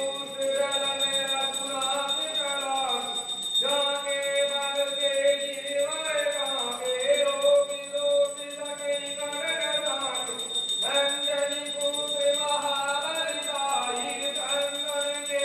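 Aarti hymn at a Hindu temple: voices singing long held and gliding notes, with a steady ringing of bells or jingles throughout.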